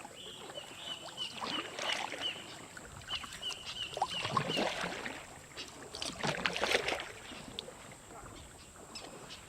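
Kayak paddles dipping and splashing in calm water. A run of short, high chirps repeats over the first few seconds.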